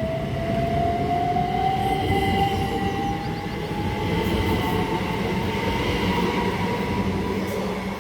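A pair of Class 387 Electrostar electric multiple units accelerating away from a station. The traction motor whine rises steadily in pitch over low wheel and rail rumble.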